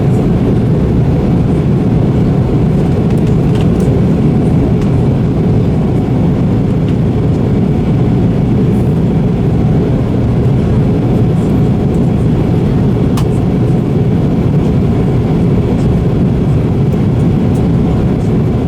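Steady drone of an airliner heard inside its cabin: engine and airflow noise, with a few faint clicks and rattles.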